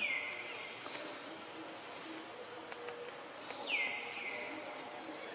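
A bird calling with short whistles that drop quickly in pitch and level off: one right at the start, then two in quick succession near the end. About a second and a half in comes a brief, rapid, very high trill of ticks.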